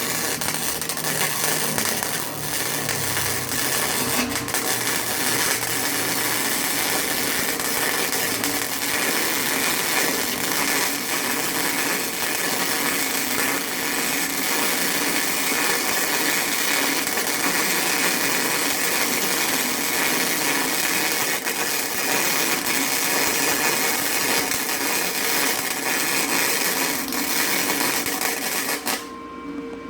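Electric arc welding: a steady crackling hiss of the welding arc that runs without a break and stops about a second before the end.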